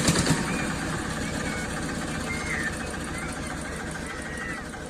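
Eicher tractor's diesel engine running with a quick, even pulsing beat, louder and harder in the first half second before settling to a steady run.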